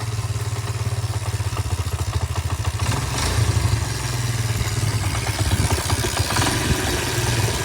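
Pit bike's small single-cylinder engine running steadily at idle just after a first-kick start, with a brief rise in engine speed about three seconds in.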